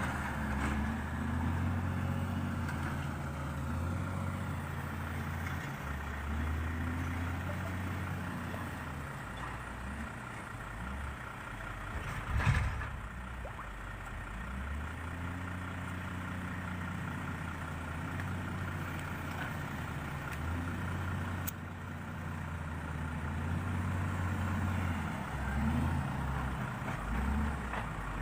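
Heavy diesel vehicle engine running, its note rising and falling as the load or revs change, with one sharp knock about twelve seconds in.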